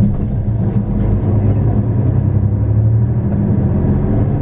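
2001 Hino Melpha 7 bus (KK-CH1JFEA) running under way, its engine a steady low drone that strengthens slightly midway and eases off near the end.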